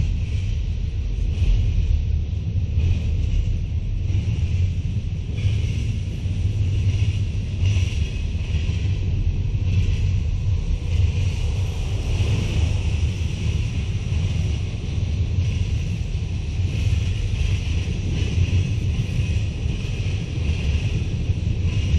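A freight train's cars rolling past on the rails: a steady, heavy rumble of wheels, with a steady higher-pitched note running above it.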